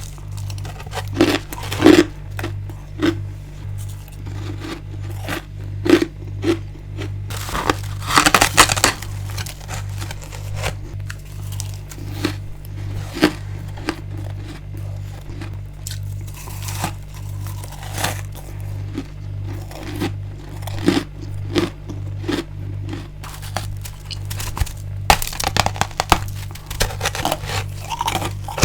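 Mouth biting and chewing frozen freezer frost and ice: loud, sharp crunches with smaller crunching chews between them. The biggest crunches come at the start, around 8 seconds in and near the end. A steady low pulsing hum runs underneath.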